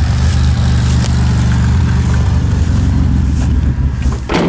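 Minivan engine running loudly at a steady speed, just after a start that needed a little gas. A short knock sounds near the end, and the engine sound falls away after it.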